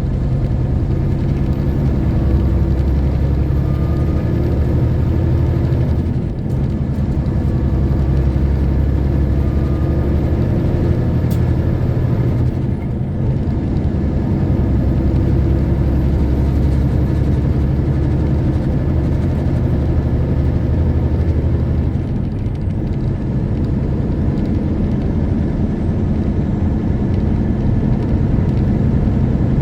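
Semi truck's diesel engine running steadily on the road, with tyre and road noise. The level dips briefly three times.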